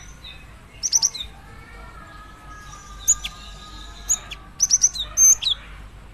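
Female cinereous tit (gelatik batu) calling for a male: clusters of short, sharp, high chirps, several quick notes at a time, about 1 second in, around 3 and 4 seconds, and a longer run near the end.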